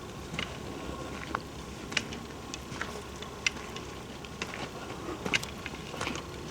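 Irregular light clicks and ticks over a steady low rumble: handling and walking noise from a handheld camera carried along a forest path.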